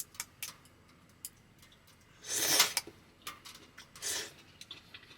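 A person eating hot spicy ramen: a short noisy slurp of noodles about two seconds in and a fainter one near four seconds, with light clicks of utensils against the pot.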